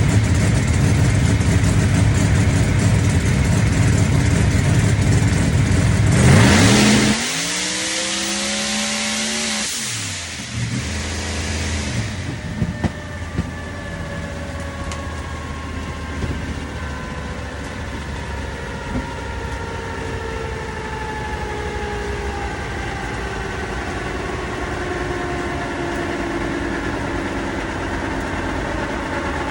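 Drag race car's engine at full throttle, loudest about six seconds in, then cut off abruptly. After that the engine note falls steadily in pitch as the car slows.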